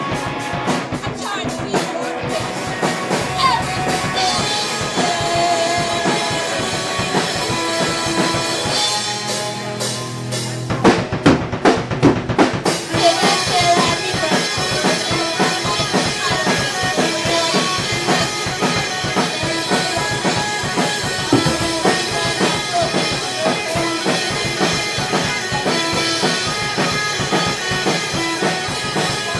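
Live band music with the drum kit to the fore, bass drum and snare plain in the mix. About eleven seconds in there is a run of loud separate drum hits, then the full band comes back in.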